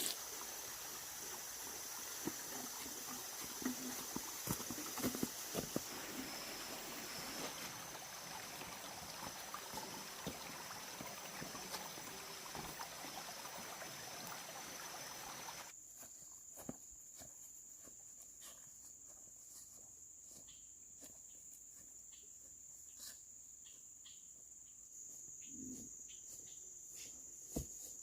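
Outdoor ambience: running water with a steady high insect drone, then after an abrupt cut about 16 s in, only the steady insect drone with scattered small clicks and knocks.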